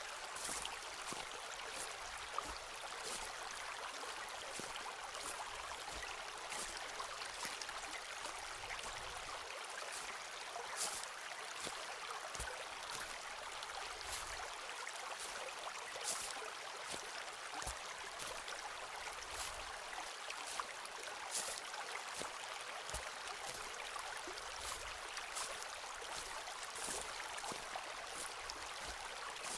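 Footsteps walking on a forest floor: irregular crunches and snaps of dry leaves and twigs underfoot with occasional soft thuds, over a steady rushing background hiss.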